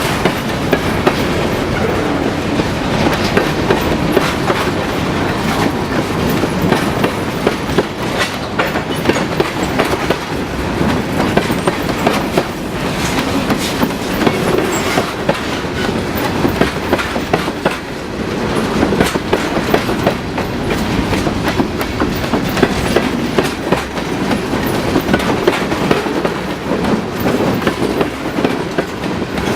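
Freight cars of a local freight train rolling steadily past at close range, the wheels clicking continuously over the rail joints.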